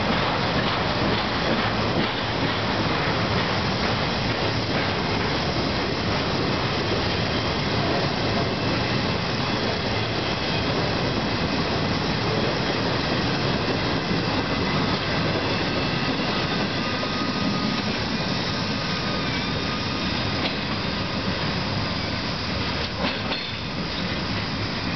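Intermodal freight cars rolling past on the rails: a steady rumble and rattle of wheels on track, with thin high wheel squeal coming in about halfway through.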